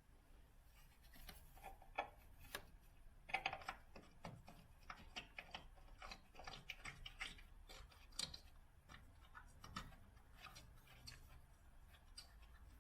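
Faint, irregular clicks and short scrapes from hand work with tools and parts, with no steady rhythm.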